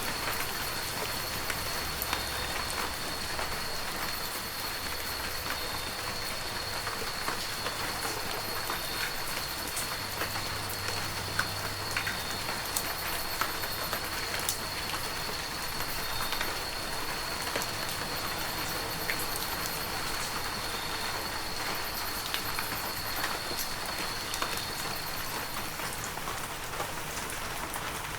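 Heavy rain falling steadily, a dense hiss of many individual drops pattering and clicking.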